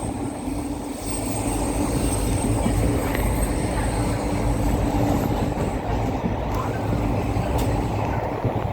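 A train running on the tracks: a steady rumble with a steady hum that stops near the end.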